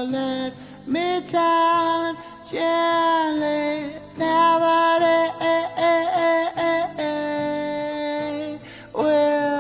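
A singer holding long, steady notes, each sliding up into pitch, over a soft repeating accompaniment, as a song is run through at a band sound check.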